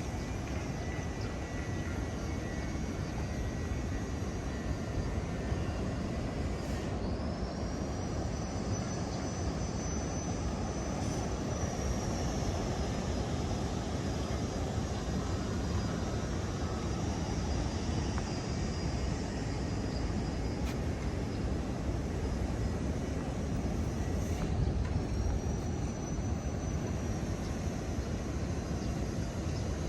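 Steady low rumble and wash of Indian Ocean surf with wind. A high steady whine comes in about seven seconds in and again near the end.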